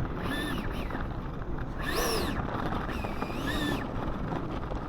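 Electric ducted fan of a 70mm RC jet whining up and falling back three times in short throttle blips, over steady wind and rain noise.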